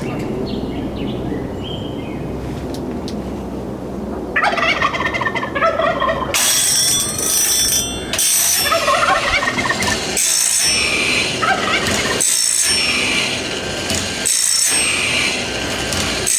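Band-sawmill blade sharpener running. Its motor hums at first, then from about four seconds in the grinding wheel grinds the blade's teeth one after another. Each high, gritty grinding pass lasts about two seconds, with a brief drop between teeth as the blade indexes to the next one.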